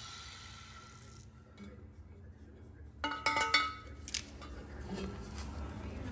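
Steel parts or tools being handled in a metal shop: a quick cluster of ringing metal clinks and clanks about three seconds in, and one more about a second later.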